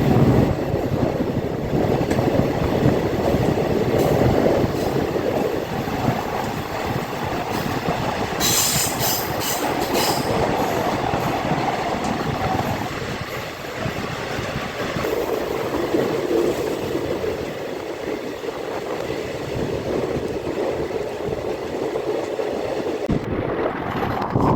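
Passenger train running along the track, heard from on board: a steady rumble of the moving carriage. About eight seconds in comes a brief high-pitched sound lasting about two seconds.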